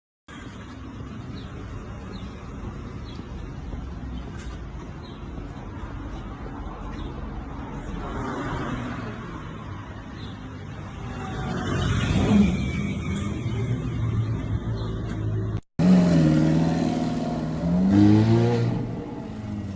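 Car and road noise: a car passes close, louder and falling in pitch, about twelve seconds in. After a sudden cut, a car engine revs, its pitch rising and falling.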